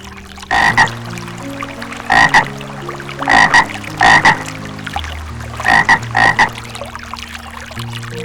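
A frog croaking loudly about five times, each call a quick double croak, over soft background music.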